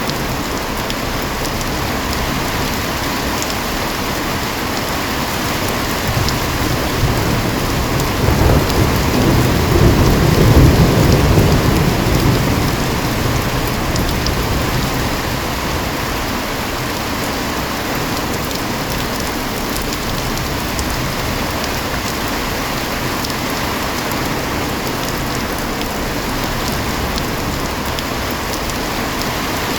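Heavy rain falling steadily, with one low roll of thunder that swells up about a fifth of the way in, peaks and dies away before the halfway mark.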